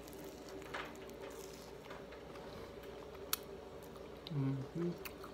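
Quiet biting and chewing of a fried pie with a fried crescent-dough crust, with faint scattered crunches and a sharp click just past the middle. A short hummed "mm" comes near the end, over a steady electrical hum from a light.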